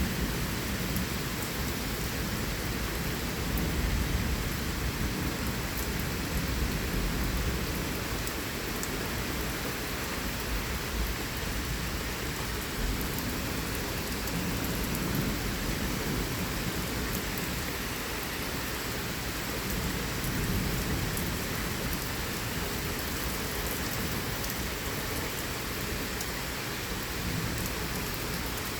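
Steady thunderstorm rain falling, with low rumbles of thunder swelling now and then.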